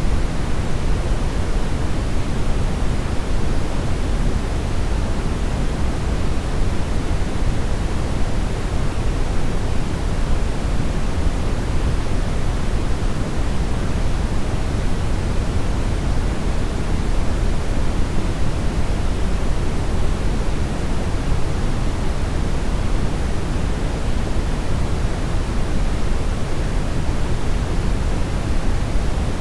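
Steady brown noise: an even, unbroken rumbling hiss weighted heavily toward the low end, with no changes or events.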